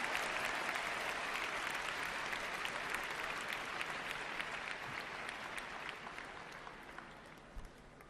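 Large arena audience applauding, a dense patter of many clapping hands that steadily dies down toward the end.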